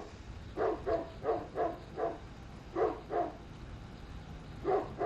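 Newfoundland dog barking: a quick run of about five barks, a short pause, two more, then two more near the end.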